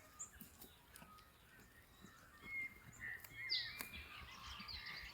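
Faint wild birdsong: scattered short chirps and warbling calls, coming more often in the second half.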